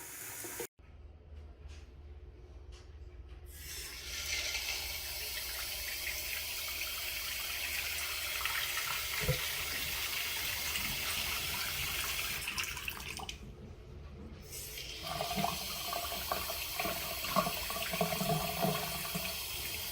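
Water running from a waterfall-spout bathroom faucet into the sink, starting a few seconds in as a steady splashing flow. Around two-thirds of the way through it briefly dies down, then starts up again.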